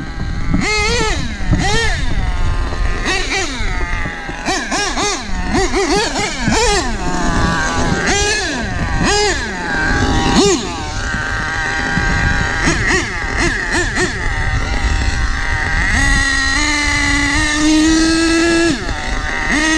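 HPI Savage 25 nitro monster truck's original HPI Nitro Star .25 two-stroke glow engine, revving up and down over and over as the throttle is worked. From about two-thirds of the way in it holds at high revs, its pitch climbing in small steps.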